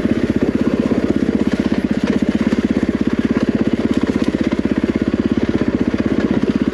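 Yamaha WR450F dirt bike's single-cylinder four-stroke engine running steadily at low revs, its firing pulses coming in an even, rapid beat.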